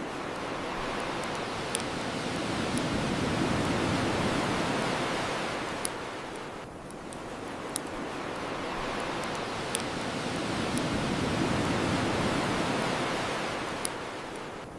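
Ocean waves washing onto a shore, swelling and ebbing twice, with sharp pops from a crackling bonfire every second or two.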